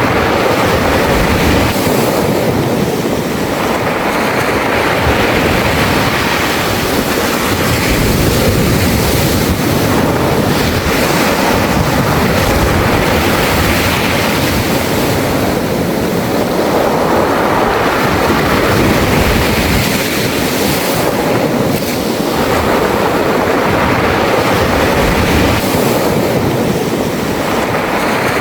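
Sea waves washing in and out over a beach of round, smooth pebbles, the surf and the rattle of the pebbles swelling and easing every several seconds.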